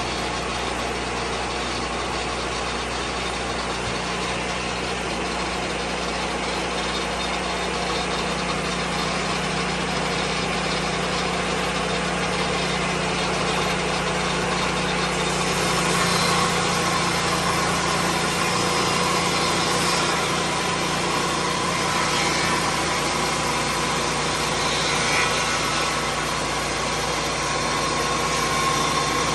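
Engine of a Lucas Mill 10-30 swing blade sawmill running steadily; about halfway through, a brighter hiss and a higher whine join it.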